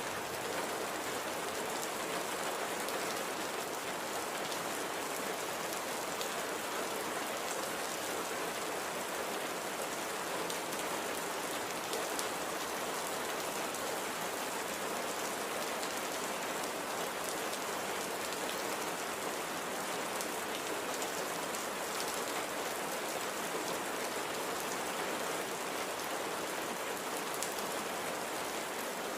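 Steady light rain falling, a continuous hiss with dense small patters of drops hitting a surface.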